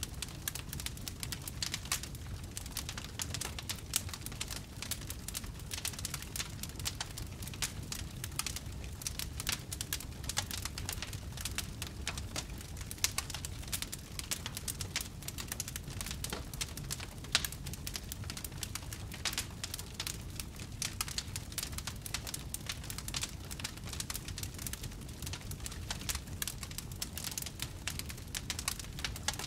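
Wood fire in a fireplace crackling continuously: many small crackles with a few louder pops, over a low rumble.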